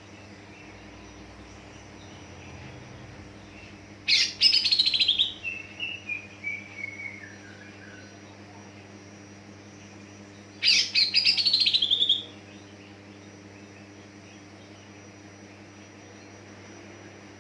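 Cucak ijo (green leafbird) singing two loud bursts of rapid, chattering high notes, about four and eleven seconds in; the first trails off into a falling run of softer notes. A faint steady hum lies underneath.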